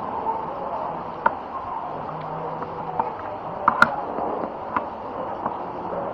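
Steady background noise of a busy eatery, broken by a few sharp clinks: one about a second in, two quick ones near the middle and one a second later, like dishes or cutlery knocking.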